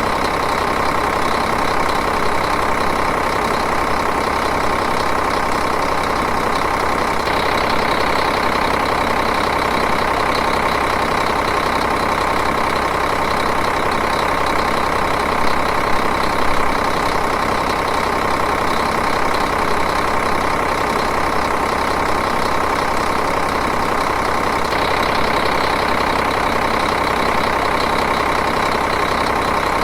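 Diesel engine idling steadily at an even speed.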